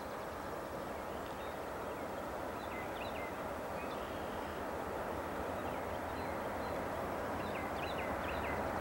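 Norfolk Southern freight train's diesel locomotives approaching, a steady rumble that slowly gets louder, with small birds chirping over it.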